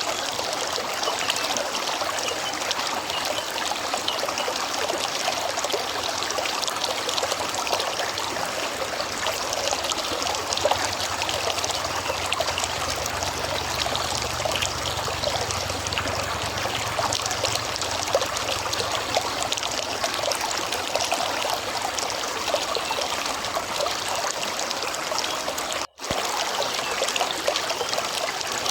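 River water running and trickling over stones: a steady babble of splashing. A faint low hum rises under it for a while in the middle, and the sound cuts out for an instant near the end.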